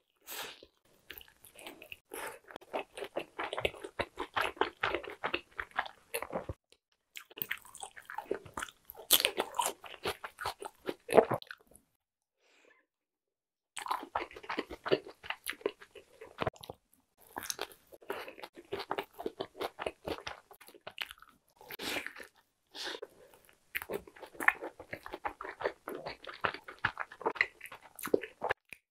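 Biting into and chewing a KFC burger: dense runs of crunching and chewing, with a short break about six seconds in and a near-silent pause of almost two seconds around twelve seconds in.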